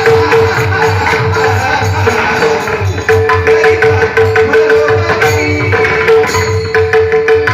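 Devotional Indian music: a pakhawaj drum plays a steady rhythm of deep, repeated strokes under a continuous held drone note.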